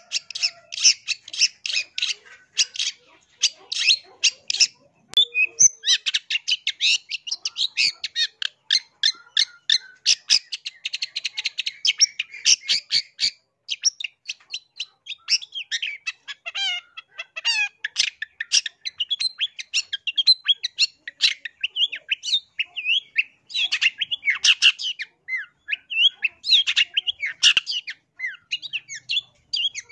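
Long-tailed shrike (cendet) singing: a fast, near-continuous run of short, high chirps and trills, broken only by brief pauses about five and fourteen seconds in.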